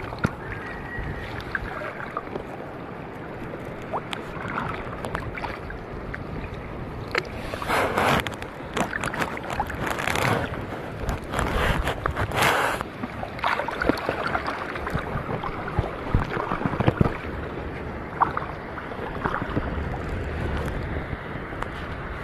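Water sloshing and splashing, with a few louder splashes about a third to halfway in, over wind buffeting the microphone.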